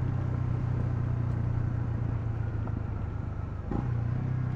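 Honda CL250's single-cylinder engine running at a steady speed on the move, its note dipping briefly near the end before picking up again.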